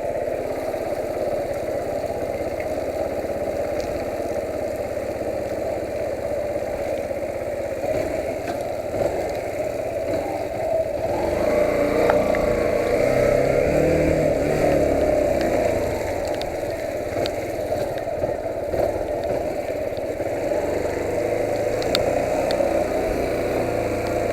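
Yamaha YBR125's single-cylinder four-stroke engine running steadily, getting louder for a few seconds about halfway through before settling back.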